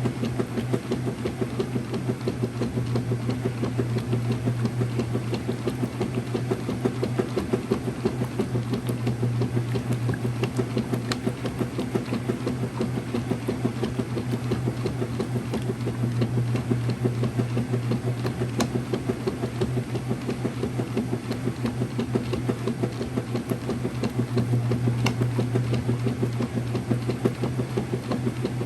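Whirlpool direct drive washing machine running, a steady motor hum with busy mechanical noise over it.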